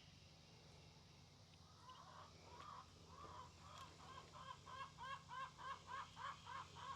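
Chickens cackling faintly in a steady run of repeated calls, about two to three a second, starting about two seconds in and growing louder.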